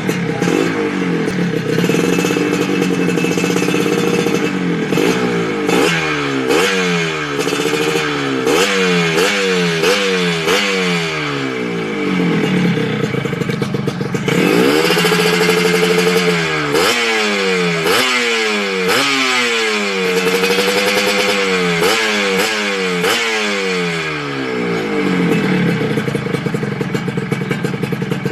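Yamaha RXZ's two-stroke single-cylinder engine revved through a racing exhaust that looks stock: a quick run of short throttle blips, each rising and falling back, and a few longer revs held high, dropping back to a steady idle near the end.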